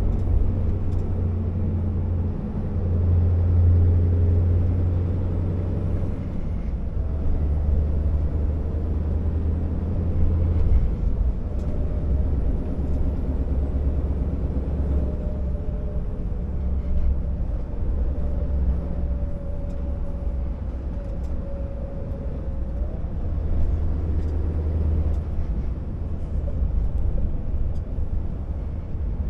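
Scania R650 timber truck's V8 diesel engine running under way, a deep low drone that shifts in level a few times, with a faint steady whine above it through the middle.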